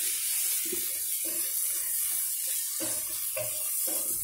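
Snake gourd and onion curry sizzling steadily in oil in a non-stick pan, with a spatula stirring through it in short strokes; the oil is separating, the sign that the curry is well fried.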